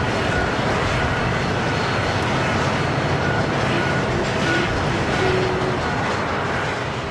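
Boeing 787-8 Dreamliner jet engines running with a steady, loud rumble and a faint whine, beginning to fade near the end.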